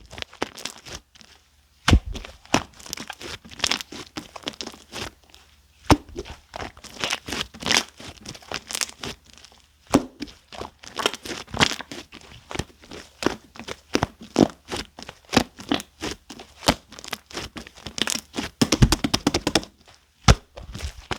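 Orange clear slime mixed with shaving foam being squished and pressed by hand, giving many irregular sticky crackles and pops.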